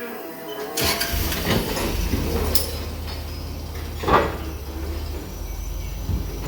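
A vehicle engine running with a low steady rumble, starting with a sudden clatter about a second in, with single loud knocks about four seconds in and again near the end.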